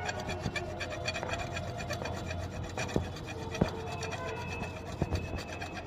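A hand tool scraping and rubbing against the end of a copper air-conditioner pipe while it is worked into a flare: a rapid rasping broken by a few sharp clicks.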